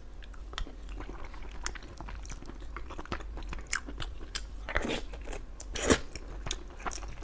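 Close-miked mouth sounds of someone chewing a mouthful of braised pork and rice: a run of small irregular wet clicks, with two louder ones about five and six seconds in.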